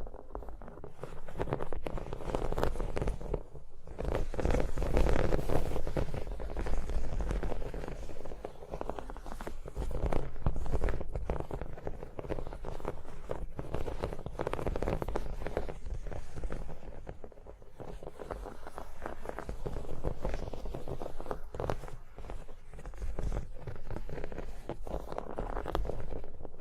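Fast, continuous fingertip and fingernail tapping on objects, a dense run of small clicks and knocks.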